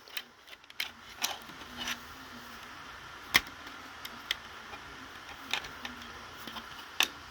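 Scattered light clicks and plastic handling sounds as a battery is fitted into an American Sensors 770LBX unit, about six clicks in all; the sharpest comes a little over three seconds in.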